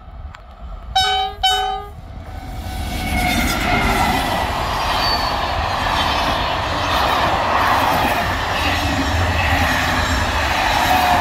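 Train horn sounds two short blasts about a second in, given as a greeting. The electric passenger train then runs past close by, its wheels on the rails making a loud, steady rush for the rest.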